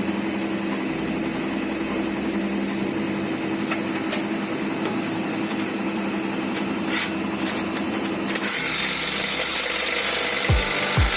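An engine running steadily with a low hum and a few light metallic clicks. About eight seconds in a louder hiss takes over, and near the end a thudding beat starts at about two a second.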